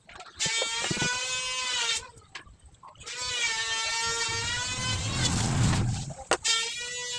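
An electric power tool's motor whining at a steady high pitch in three runs with short pauses between. In the middle of the second run it is joined by a rougher, deeper noise, as of the tool biting into wood.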